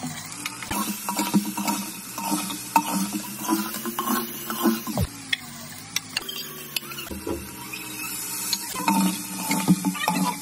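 Chicken pieces sizzling in oil in a metal pot, with a metal spatula stirring and scraping against the pot in irregular clicks and scrapes.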